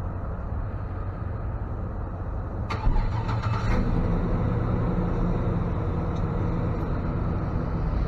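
Truck engine running steadily; a sharp clunk comes about three seconds in, after which the engine note grows louder and holds steady.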